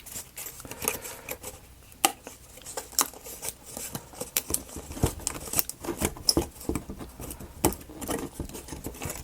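Small laser-cut plywood model-kit pieces clicking and tapping as they are handled, in an irregular run of sharp knocks with a louder tap about two seconds in and another about five seconds in.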